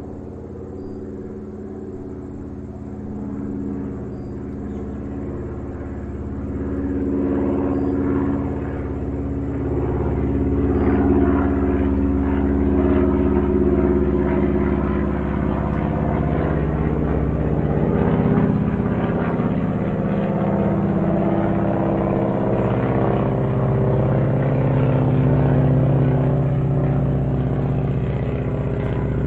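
A motor vehicle's engine running steadily, its pitch drifting slowly, growing louder over the first ten seconds or so and then holding.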